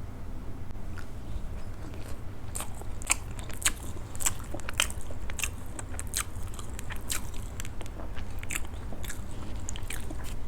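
Close-miked eating of soft idli with sambhar and chutney: chewing with a string of short, sharp, irregular mouth clicks starting about a second in.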